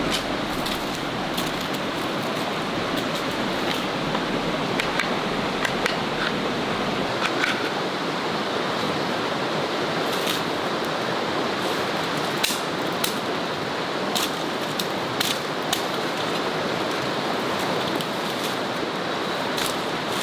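Steady rushing outdoor ambience with many short, sharp crackles and clicks scattered through it.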